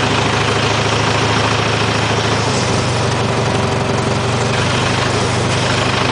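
IHC tractor engine running steadily at a low, even speed, with a slight change in its low note about two and a half seconds in.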